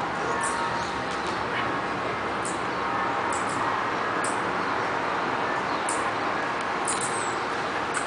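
About half a dozen short, high-pitched bird chirps at irregular intervals over a steady background noise.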